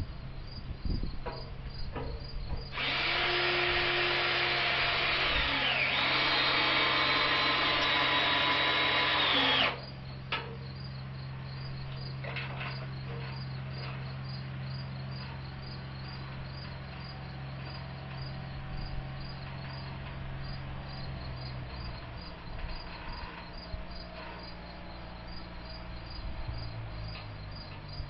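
Power drill running for about seven seconds, starting a few seconds in and stopping suddenly, its pitch shifting briefly partway through. Crickets chirp steadily throughout over a low steady hum.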